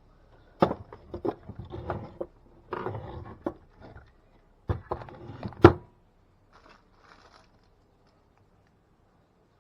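Handling noises from taking apart a plastic vacuum cleaner brush head: a run of clicks, knocks and scrapes over about five seconds, the loudest a sharp knock near the end, followed by a few faint ticks.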